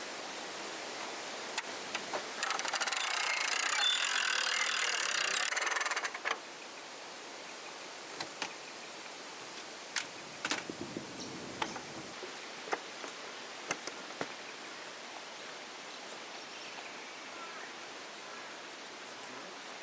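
Outdoor ambience: a steady hiss with scattered sharp clicks, broken by a loud rasping, rattling sound lasting about four seconds near the start, and faint calls near the end.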